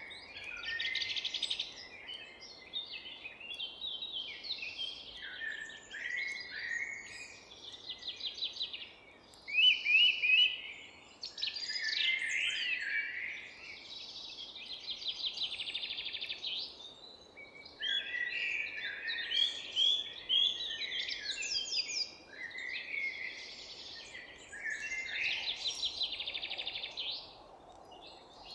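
Several songbirds singing and calling over one another: continuous chirps, fast trills and whistled phrases, over a faint steady background rumble.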